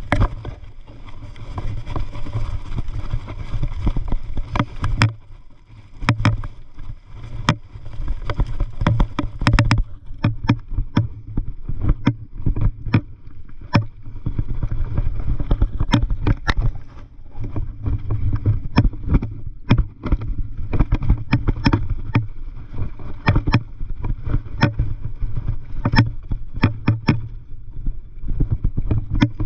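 Mountain bike rolling over a rough dirt trail: a steady low rumble with frequent, irregular sharp knocks and rattles as it jolts over bumps.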